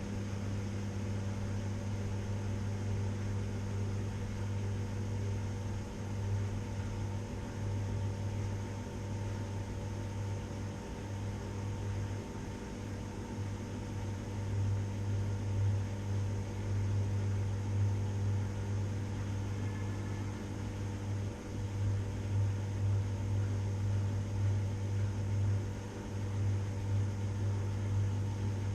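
Washing machine running: a steady low motor hum with a faint whir above it, its loudness swelling and dipping unevenly in the second half.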